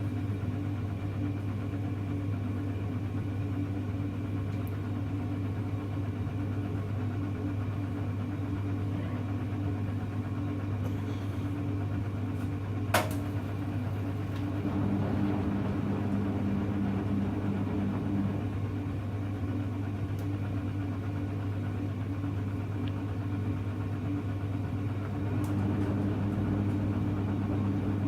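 Hoover Electra front-loading washing machine running with a steady low hum. A single sharp click comes about halfway through, and a second, slightly higher tone joins twice for a few seconds.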